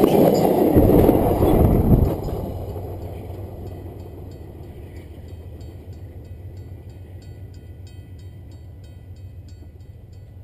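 A Via Rail passenger train passing directly over a camera set between the rails: loud wheel-on-rail noise for about two seconds, then it drops sharply as the last car clears and fades away as the train moves off. Faint high clicks sound near the end.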